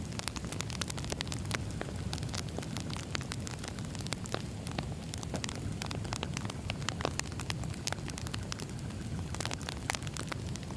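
Campfire crackling: a steady low rumble of burning with frequent irregular sharp pops and snaps.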